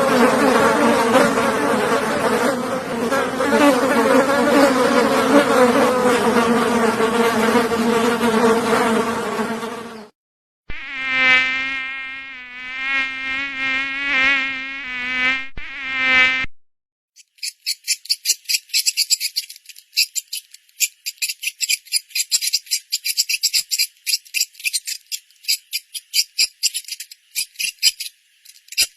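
Insect sounds in three parts. First, loud buzzing of flying insects' wings for about ten seconds. After a brief break, a single buzz wavering up and down in pitch for about six seconds, then a fast, high-pitched pulsing insect trill to the end.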